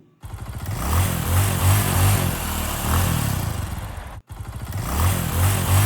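Heavy motorcycle engine running and revving unevenly, cutting out for an instant about four seconds in and starting again.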